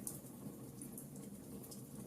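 Log campfire burning: a low, steady rush of flames with a few sharp crackles and pops from the wood.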